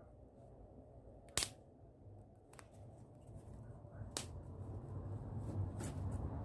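A sharp click about a second and a half in, then a few fainter clicks, over a low rumble that grows steadily louder.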